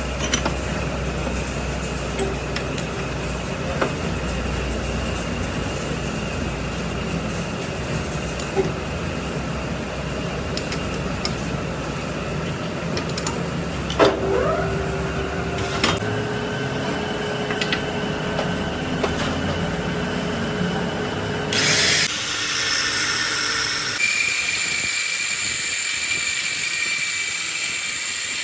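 Workshop metalworking machine and power-tool noise. It runs steadily and changes character abruptly several times, from about the middle on.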